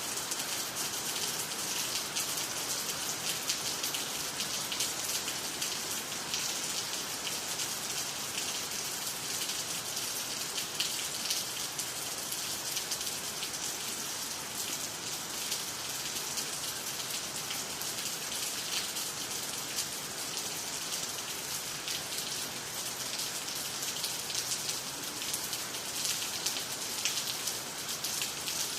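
Steady rain falling, a dense patter of drops hitting water, trees and the ground.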